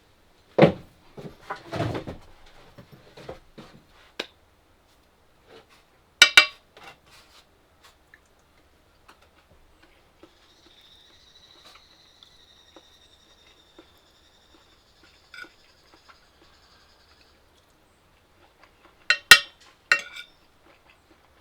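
Dishes and utensils clinking and knocking in a few short clusters, with a faint high steady tone for several seconds in between.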